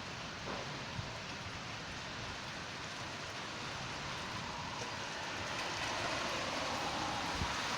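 Rain and wind of a storm, a steady rushing noise that grows a little louder about two-thirds of the way in.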